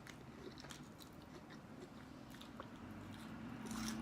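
Close-miked chewing: soft, scattered mouth clicks and smacks of someone chewing food. A low steady hum rises near the end.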